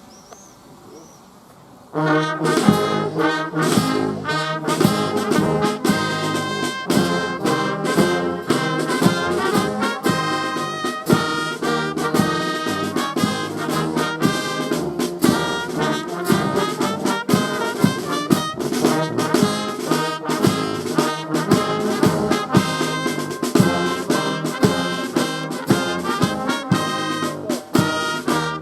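Brass band playing a piece with trumpets, trombones and a steady bass line, starting abruptly about two seconds in after a short lull.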